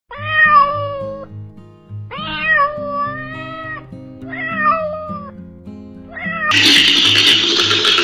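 A domestic cat meowing four times in drawn-out meows, over background music with a steady low beat. About six and a half seconds in, a loud, steady noise cuts in and covers everything.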